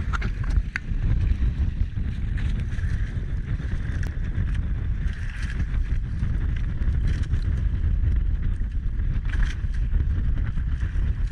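Small fishing boat under way at sea: a steady low rumble from the boat and water, with wind buffeting the microphone.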